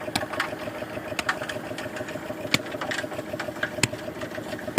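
Concrete mixer's engine running steadily, with sharp knocks and clatters scattered irregularly over it.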